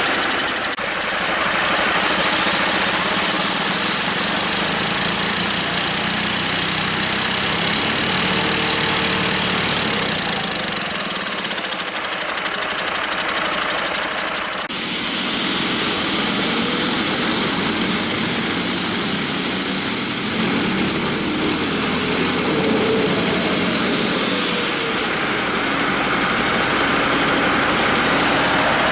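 Detroit Diesel Series 60 14.0-litre EGR inline-six diesel running and revved twice, a high turbocharger whine rising and falling with each rev.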